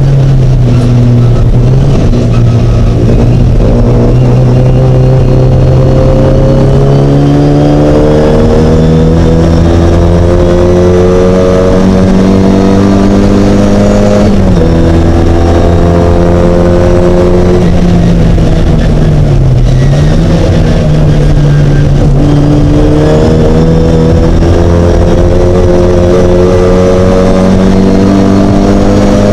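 Mighty Mini race car's engine pulling hard through the gears, pitch climbing in long rises, with a sharp drop at a gearchange about halfway through and a brief dip about two-thirds in before it climbs again.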